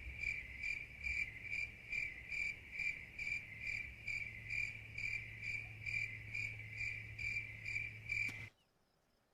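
Cricket chirping sound effect, the stock 'awkward silence' meme sound: an even chirp repeating about three times a second over a faint low hum, cutting off about a second before the end.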